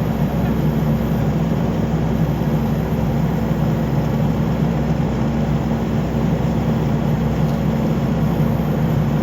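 Skid steer engine running steadily under work, a loud even drone with no change in speed.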